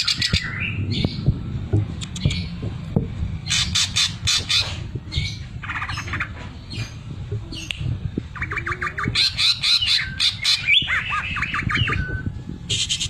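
A cucak ijo (greater green leafbird) singing loud, harsh chattering phrases mixed with short whistled notes. About eight seconds in comes a fast, even, machine-like rattle: the 'sewing machine' imitation prized in this bird's song. A low rumble runs underneath.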